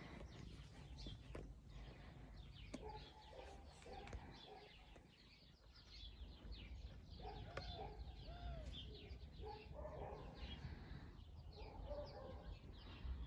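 Faint bird calls and chirps, many short calls scattered throughout, some lower arching calls among higher quick chirps.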